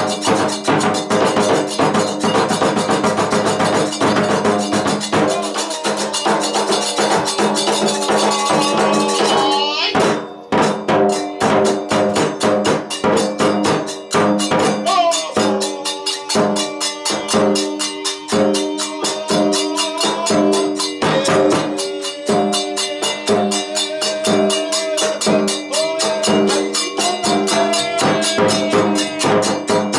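Kagura music: a fast, steady beat of drum strokes and clanging hand cymbals under a flute melody that slides between notes, with a short break about ten seconds in.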